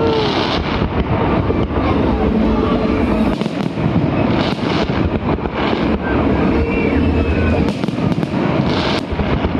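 Fireworks going off in a dense, continuous barrage of crackles, pops and bangs.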